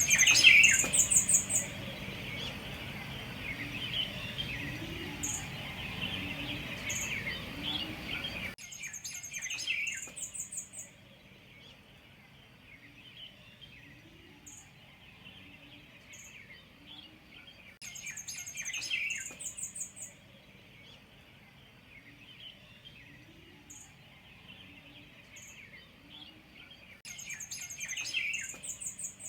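Outdoor birdsong: one bird repeats a high, rapid trilled phrase about every nine seconds, with softer chirping from other birds between. A steady background hiss cuts off suddenly about eight seconds in.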